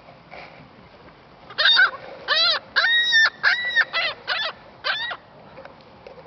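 Gull giving a run of about seven loud, harsh calls in quick succession, the middle ones drawn out and level in pitch, starting about a second and a half in. It is an agitated gull competing for food.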